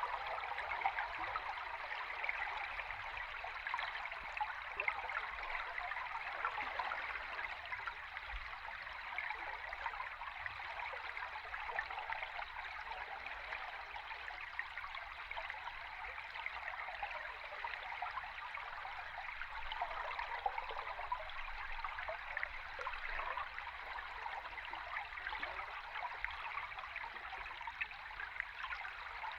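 Flowing river stream recorded underwater: a steady rush of water with fine crackling and bubbling, unchanging throughout.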